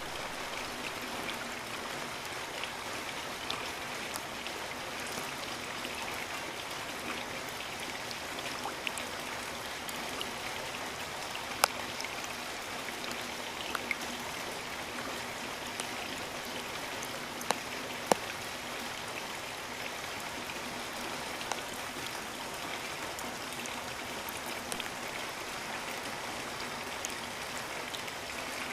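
Steady rain falling in a rainforest, an even hiss with a few sharp single drop ticks standing out now and then.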